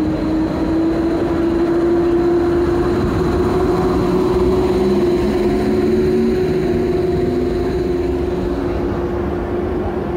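Passenger train running at the station: a steady, loud mechanical hum with a constant tone and a second tone that rises slowly and then falls.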